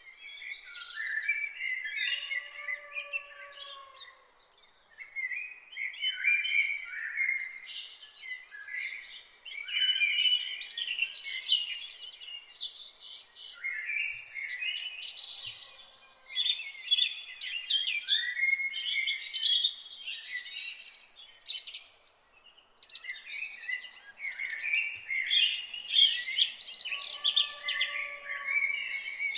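A morning chorus of many songbirds chirping and singing over one another without a break. A lower, longer call sounds about two seconds in and again near the end.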